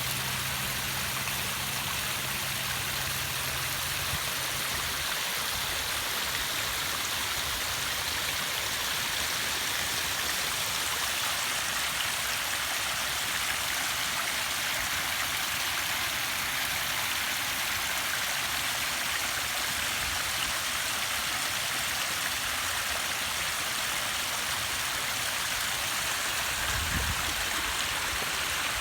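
Water from a pondless waterfall running steadily over stacked fieldstone boulders, an even splashing rush. A faint low hum fades out in the first few seconds, and a brief low rumble comes near the end.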